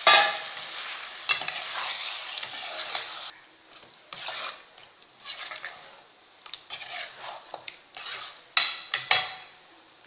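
Ground masala paste hitting a hot pan of chicken and sizzling loudly, with a spoon scraping and clinking against the pan as it is stirred in. The sizzle starts suddenly and dies down about three seconds in, leaving short bursts of scraping and clinks.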